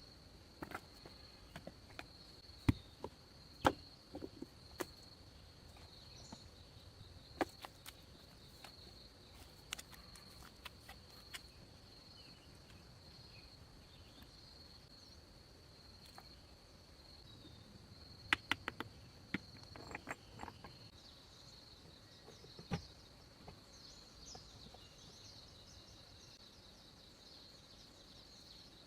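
Steady, high-pitched drone of insects, crickets or similar, running unbroken. Scattered sharp clicks and knocks fall over it, several in quick succession about eighteen seconds in.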